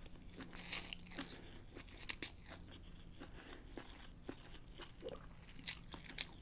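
Close-miked chewing of pancit bihon rice noodles and pork: irregular short wet mouth clicks.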